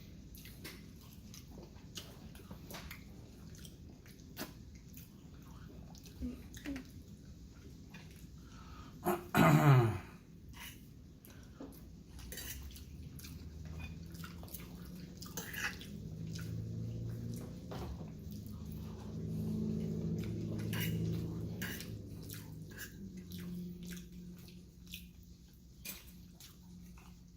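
Close-up eating sounds: many small wet clicks and smacks of chewing food. About nine seconds in there is a brief, loud sound falling sharply in pitch, and a low steady hum runs through the middle stretch.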